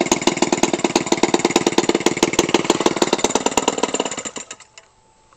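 Toro 28cc gasoline engine, converted for RC airplane use, idling steadily at about 1500 RPM with rapid, even firing pulses. About four seconds in it is shut off: the firing slows and stops within a second.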